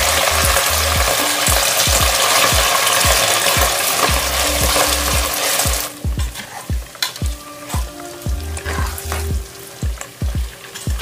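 Land snails sizzling loudly in hot oil in a pot just after being tipped in. About six seconds in the sizzle drops sharply, and a metal utensil clicks and scrapes against the pot as the snails are stirred.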